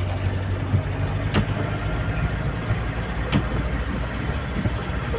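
Heavy rain and strong wind: a steady rushing noise with a low rumble and a few faint ticks.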